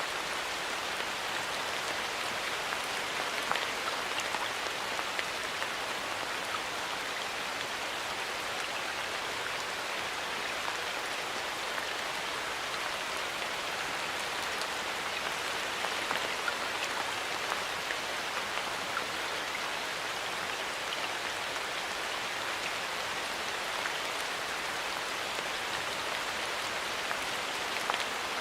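Steady light rain falling in a forest, many fine drops pattering on leaves and other surfaces.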